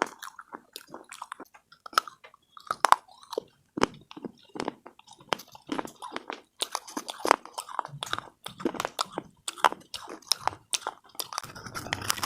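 A person biting and chewing crunchy slate pieces: a run of sharp, irregular crunches that comes thicker in the second half.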